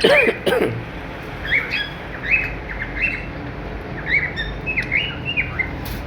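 Caged cockatiels calling: repeated short, squawky chirps, one or two a second, with a lower arching call right at the start.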